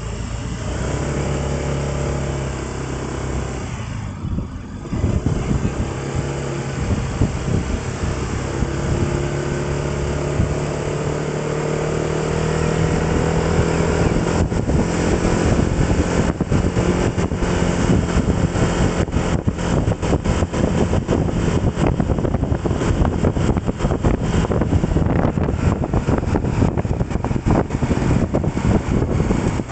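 A road vehicle's engine pulling away and accelerating, its pitch rising over the first dozen seconds, then running steadily under gusty, crackling wind and road noise in the second half.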